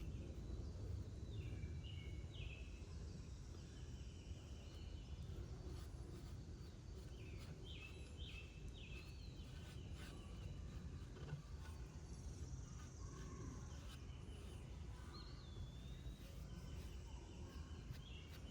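Faint outdoor ambience: birds chirping now and then in short repeated notes, with a few rising and falling whistles, over a low steady rumble.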